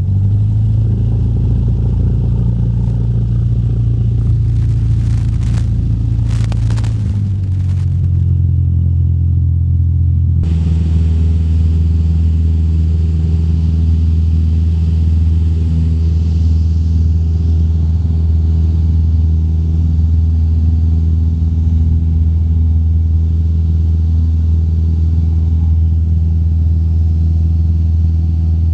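Small single-engine piston airplane's engine at takeoff power, heard from inside the cabin: a loud, steady drone whose tone shifts as power comes up near the start and changes again about ten seconds in, with a few brief knocks around five to seven seconds in.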